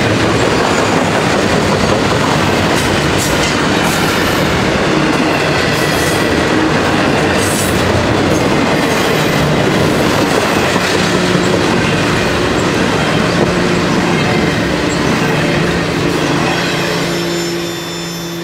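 Double-stack intermodal freight train rolling past at speed, its wheels rumbling and clattering on the rails. A low steady tone joins about two-thirds of the way through. The noise falls away near the end as the last car passes.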